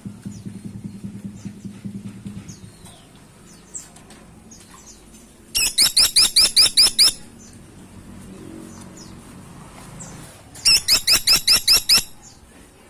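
Caladi tikotok woodpecker (grey-and-buff woodpecker) calling in two rapid rattling series of sharp, high notes, about nine or ten notes each and about a second and a half long, the first near the middle and the second near the end. A low, fast pulsing sound is heard for the first couple of seconds.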